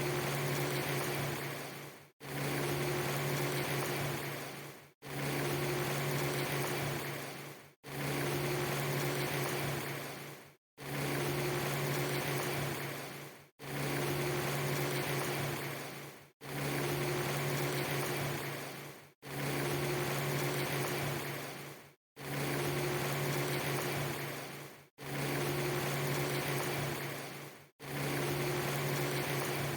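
Looped rain recording: a steady rain hiss over a low hum, about three seconds long, repeating over and over. Each repeat fades out into a brief gap of silence before it restarts.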